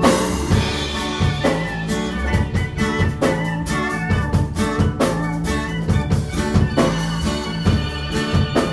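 Live rock band playing an instrumental passage between sung lines: electric guitar, bass and drum kit, with a steady beat.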